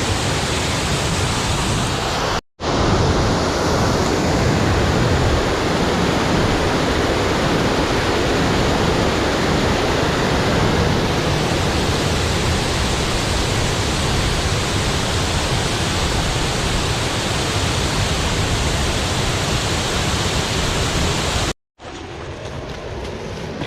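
Waterfall roaring: a loud, steady rush of falling water. The roar breaks off briefly twice, about two and a half seconds in and near the end, and is quieter after the second break.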